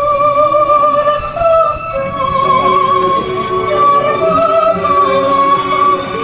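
Music with a high voice singing long held notes with a wavering vibrato.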